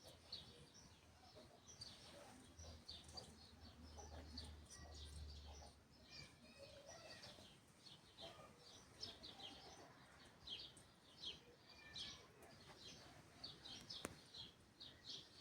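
Faint chirping of small birds: many short, quick chirps repeating throughout. A low hum sits underneath for a few seconds in the first half.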